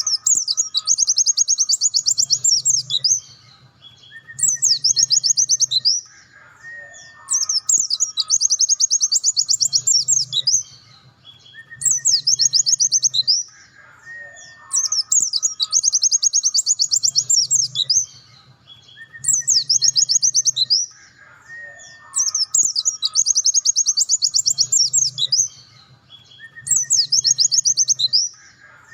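A pleci dakun, a white-eye, singing 'nembak': repeated phrases of very fast, high trills, each lasting about two seconds and coming back every few seconds. Short, lower whistled notes fall between the phrases.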